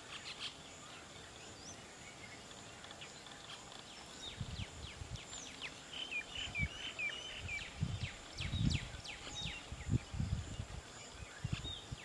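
Birds chirping in many short, high, downward-sweeping notes, with a quick run of hooked notes about halfway through. Irregular low rumbling bumps join in from about four seconds in.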